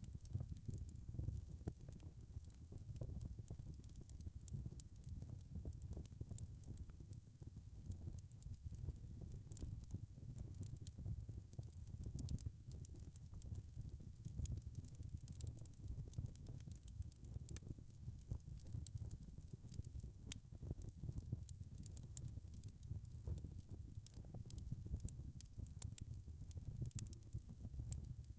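Wood fire crackling, with many small irregular snaps over a low steady rumble of the flames.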